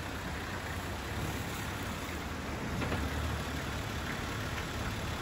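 An off-road SUV's engine running steadily, a low hum under an even hiss.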